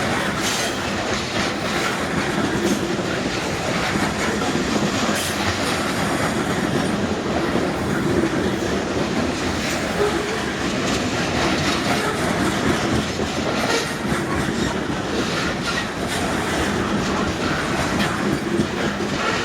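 Loaded freight train cars rolling past at speed, a steady rumble of steel wheels on rail with repeated clicks as the wheels cross rail joints.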